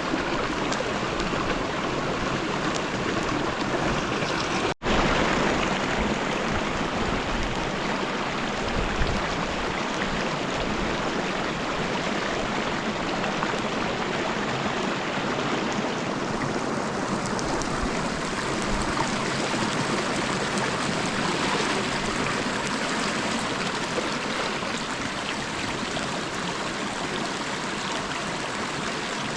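Steady rushing water, the dense even noise of a river or heavy rain, with a very brief gap about five seconds in.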